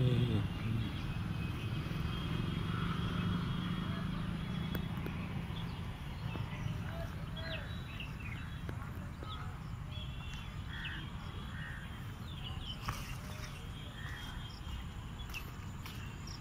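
Birds chirping and calling in short, scattered notes, over a steady low rumble.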